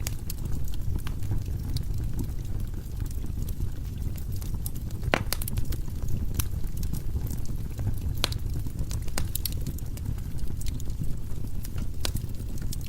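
Firewood burning in a fireplace: a steady low rumble of flames with irregular sharp crackles and pops, the loudest about five and eight seconds in.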